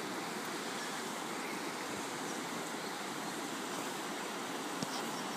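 Kilchis River rushing steadily over rocks, an even wash of flowing water with a faint tick near the end.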